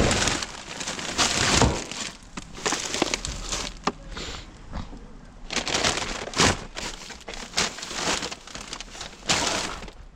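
Rubbish being rummaged through by hand: irregular rustling, crunching and crinkling of bags and loose items, broken by several sharp knocks.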